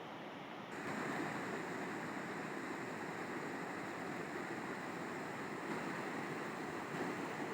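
River water rushing steadily, an even hiss of flowing water that steps up a little in level and brightness about a second in.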